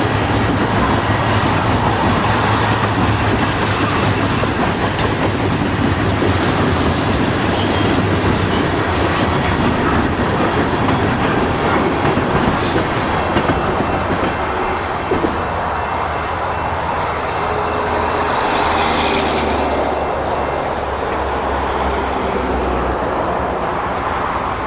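CN freight train rolling past, its cars' wheels running on the rails in a steady loud rumble that changes character about two-thirds of the way through.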